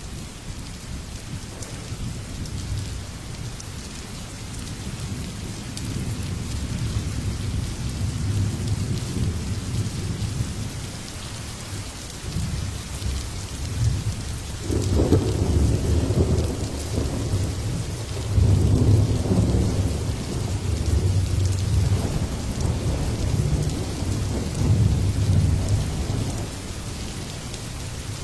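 Steady rain falling, with low rolling rumbles of thunder that swell through the middle and are loudest about halfway through and again a few seconds later.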